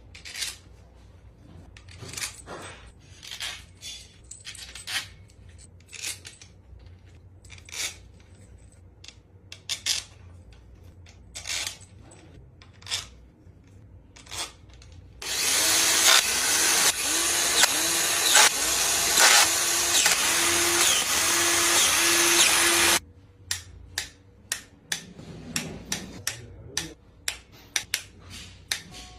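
Sharp, scattered clicks and knocks of tools during engine work. About halfway through, a power tool runs loud and steady for about eight seconds and stops abruptly, followed by a quick run of clicks.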